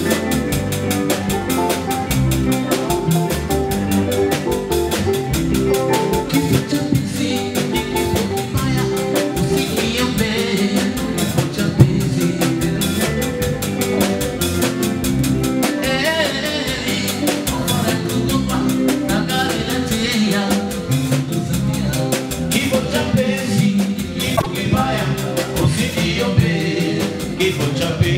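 A live band playing upbeat dance music, with a drum kit keeping a steady beat.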